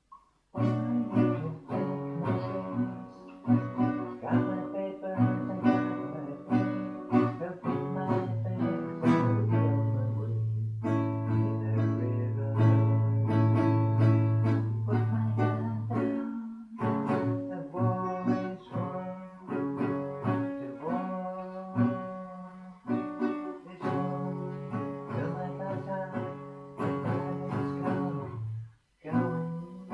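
Acoustic guitar played solo: a tune of picked notes and chords, with a long-ringing low chord in the middle and a brief pause near the end.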